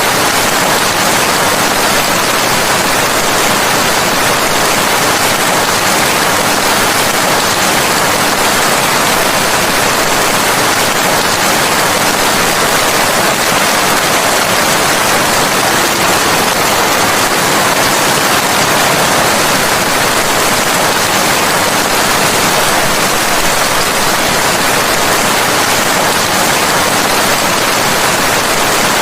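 Rain falling in a steady, dense hiss, even throughout with no breaks or separate drops standing out.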